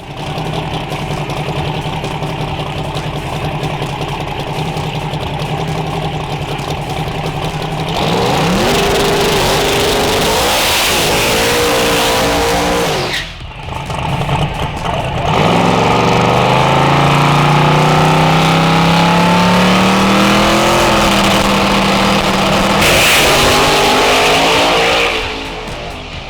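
Drag car engine running at a steady idle, then revving up with climbing pitch about a third of the way in. After a brief break just past halfway, it pulls in one long, steadily rising run as the car accelerates hard, then falls away near the end.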